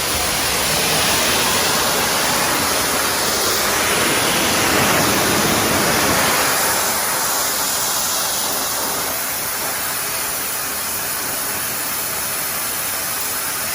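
Steam pressure cleaner jetting hot water under high pressure: a steady, loud hiss of the spray that swells slightly and then eases off.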